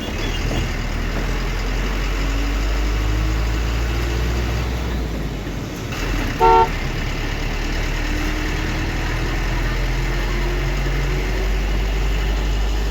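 Truck engine running with a steady low rumble, its pitch slowly climbing twice, and one short horn toot about six and a half seconds in, the loudest sound.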